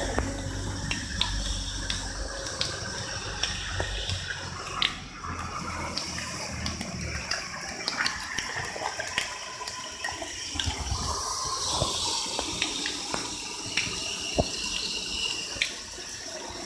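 Water running through a rain gutter, flushing out the soil that has built up in it: a steady rush of water with scattered small clicks and knocks.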